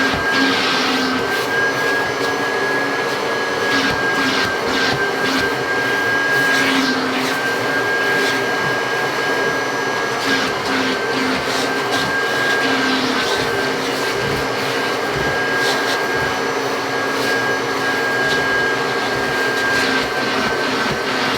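1984 Kirby Heritage upright vacuum cleaner running steadily: a high motor whine over the rush of air, with short scratchy rasps here and there as it works.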